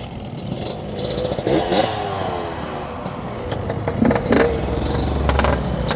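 Yamaha RX-King two-stroke single-cylinder motorcycle pulling away and accelerating, its engine pitch rising and dropping as it changes gear.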